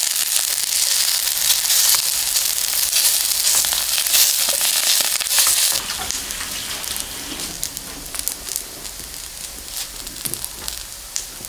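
Batter-coated onion strips frying in oil in a hot pan, a steady loud sizzle. About six seconds in it drops abruptly to a quieter sizzle with scattered crackling pops.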